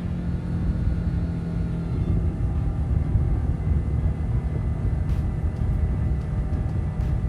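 Mercury 150 four-cylinder four-stroke outboard driving a boat at steady planing speed: an even engine drone over a heavy rushing rumble.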